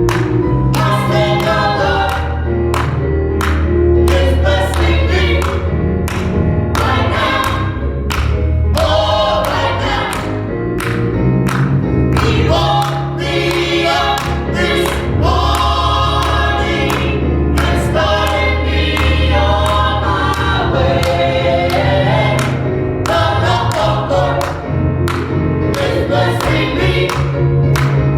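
Gospel choir singing with a band, a strong bass line and steady drum beats under the voices.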